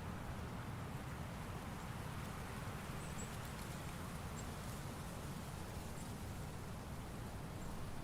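Steady autumn forest ambience: an even low rumble and soft hiss, with a few faint, short, high chirps every second or so from about three seconds in.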